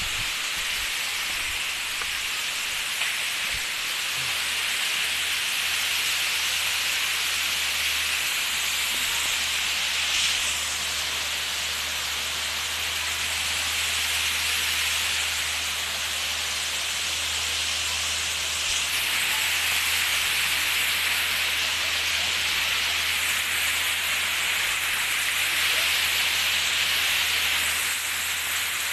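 Waterfall's water rushing steadily, an even hiss that swells and eases slightly.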